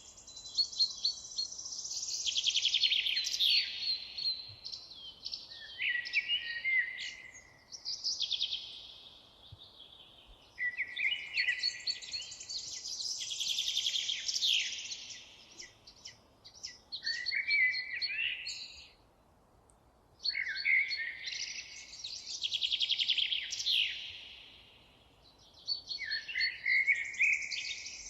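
A songbird singing long, varied phrases full of rapid trills and quick pitch sweeps, each lasting a few seconds, with short pauses between them.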